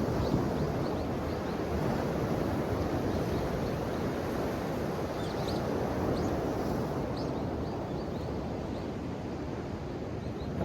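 Ocean waves washing and breaking, a steady surging rush that swells and eases gently, with a few faint high chirps over it.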